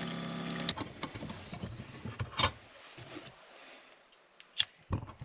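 A steady mechanical hum cuts off suddenly under a second in, followed by a few scattered knocks and clatters.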